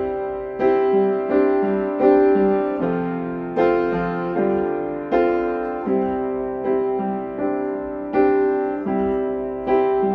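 Piano playing a slow accompaniment of repeated chords, each struck and then fading, at an even pace of roughly one or two chords a second.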